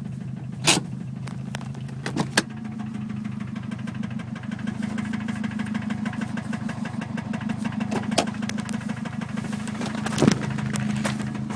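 The 2011 Subaru WRX STI's 2.5-litre turbocharged flat-four engine running with a rapid, rhythmic knocking from inside the motor, the sign of an internal failure in a bone-stock engine. A few louder sharp clacks stand out about a second in, around two seconds in, and near eight and ten seconds.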